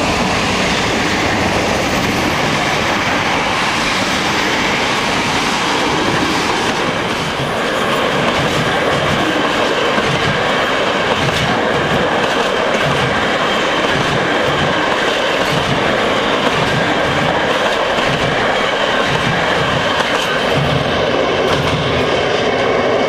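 MLW-built diesel locomotive passing close by, then a long container train rolling past: steady, loud rail noise with a rhythmic clickety-clack of wagon wheels over the rail joints, which becomes clearer after about eight seconds.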